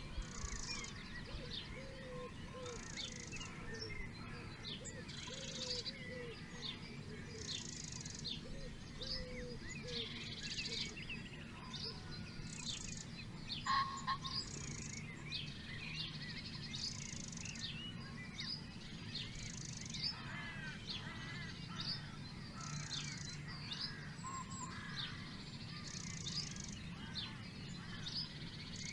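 A mixed chorus of wild songbirds singing together, with many overlapping chirps and trills and a buzzy high note repeating every couple of seconds. A lower repeated call runs under it for the first ten seconds or so, over a steady low background rumble.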